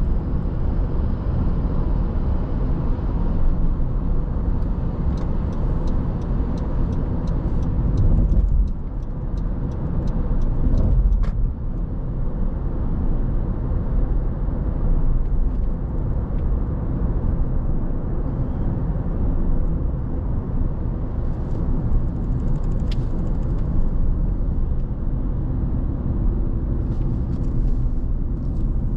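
A car driving, a steady rumble of tyres on the road and engine from the moving car. About five seconds in comes a short run of quick, light ticks.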